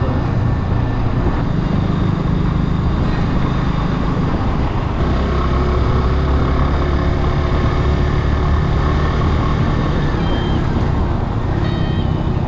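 Kawasaki W175's single-cylinder engine running while the motorcycle is ridden, over a steady rush of noise. The engine note drops lower around the middle and comes back up near the end.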